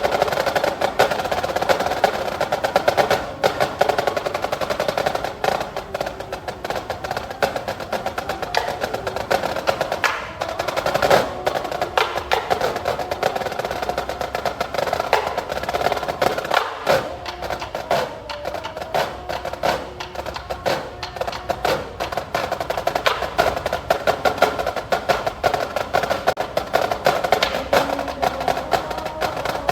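Youth wind ensemble playing with its percussion section: rapid snare and wood-block strokes and rolls over held wind chords.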